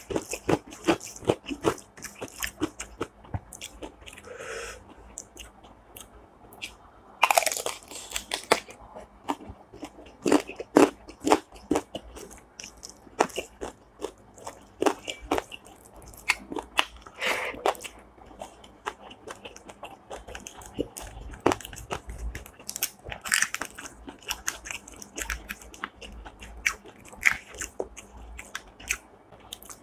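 A person eating close to the microphone: steady chewing with many sharp clicks, and louder crunching bites about seven seconds in, around seventeen seconds and again about twenty-three seconds in.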